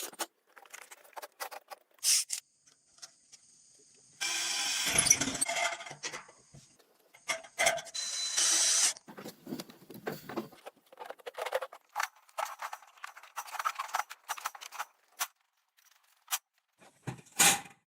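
Hand work with materials: an irregular run of scrapes, rubs, clicks and knocks, with two longer, louder scraping stretches about four and eight seconds in.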